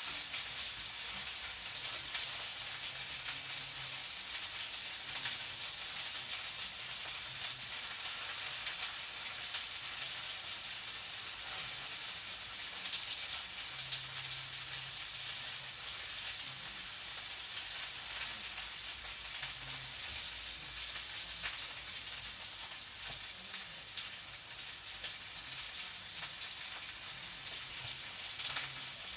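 Food frying in a pan: a steady crackling sizzle, with a faint low hum that comes and goes.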